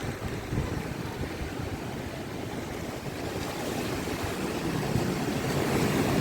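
Rough monsoon sea: surf breaking and washing, mixed with wind buffeting the microphone as low gusty rumbles. The wash swells louder over the last few seconds.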